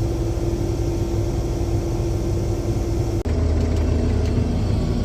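Combine harvester running steadily, heard from inside the cab, with a steady whine over the engine drone. About three seconds in it cuts off abruptly and a different, lower steady engine drone takes over.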